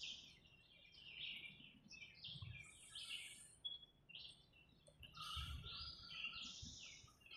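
Birds chirping faintly in the background: a busy run of short, high chirps and twitters, many overlapping.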